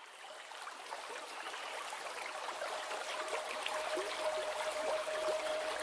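Flowing water: a babbling stream with many small bubbling plops, fading in. A single steady held tone rises under it, the start of music.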